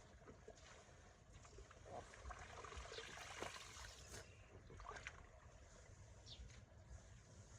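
Faint trickling and splashing water, with a few soft knocks and splashes, a little louder around the middle.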